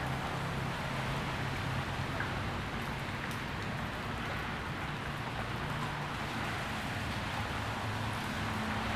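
Rain with a thin stream of runoff water splashing steadily into a puddle, an even, unbroken hiss. A low steady hum runs underneath.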